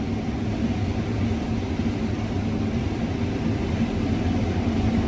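Combine harvester running steadily while harvesting corn, heard from inside the cab: an even engine and machinery drone with a low hum.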